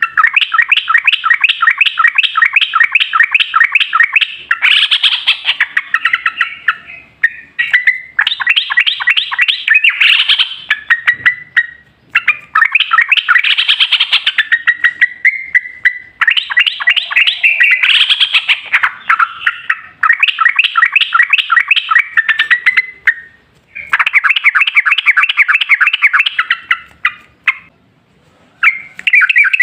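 Yellow-vented bulbul (trucukan) singing in long runs of rapid repeated notes. The runs come in phrases of several seconds, with short breaks between them.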